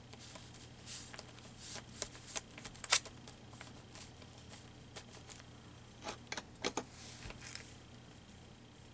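Soft paper rustling and small taps from handling and gluing down paper cut-outs, with a sharp click about three seconds in and a few quick taps a little past six seconds.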